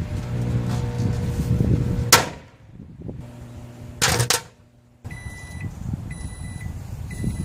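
Microwave oven humming as it runs, then two loud sharp sounds about two seconds apart. A brief quiet follows, and then three high-pitched end-of-cycle beeps, about one a second, signal that the cooking time is done.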